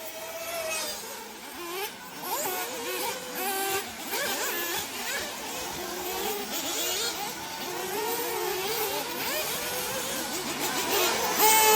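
Several 1/8-scale nitro off-road buggies racing, their small two-stroke glow engines revving up and down in overlapping, wavering whines.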